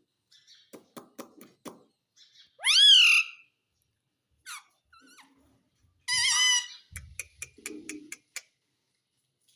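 Pet parrot calling: a loud squawk that rises and falls in pitch about three seconds in, and a longer harsh call around six seconds, with runs of short sharp clicks before and after.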